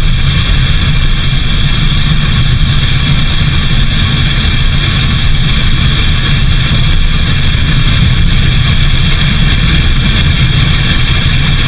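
Steady vehicle engine and road noise while driving, an even low rumble with a constant higher whine that does not change.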